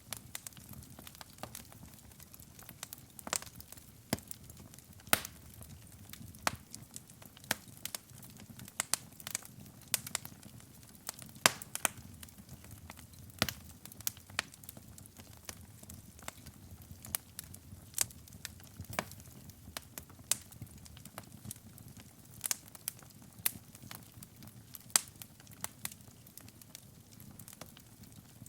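Wood fire burning in a fireplace: a low steady rumble of flames with irregular sharp crackles and pops, several of them loud.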